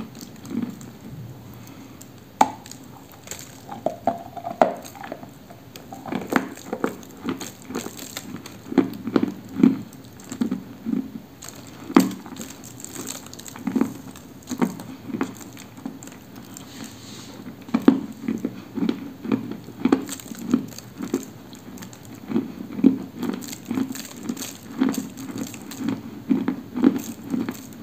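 Close-miked chewing of a chunk of dry, crumbly edible clay: repeated dull crunches, about one or two a second, with sandy grains grinding between the teeth.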